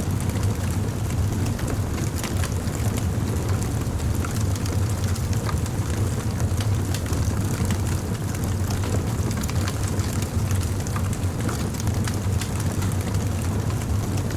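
Wood fire burning, with a steady low rumble of flames and frequent small crackles and pops of burning wood.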